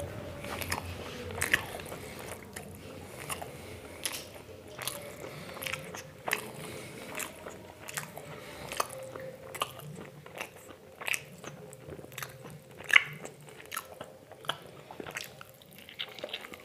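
A person chewing and biting food, with irregular crunchy, wet clicks and smacks. One sharp crunch stands out about three-quarters of the way through.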